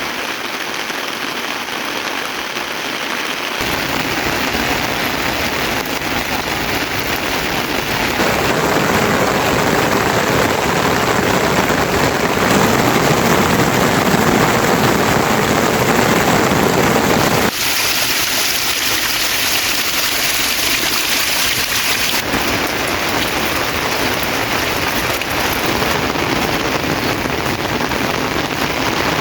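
Steady rain falling, a dense even hiss that changes character abruptly about four times.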